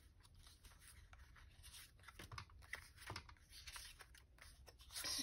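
Faint rustling and light tapping of paper craft tags being sorted through by hand, with a slightly louder rustle near the end.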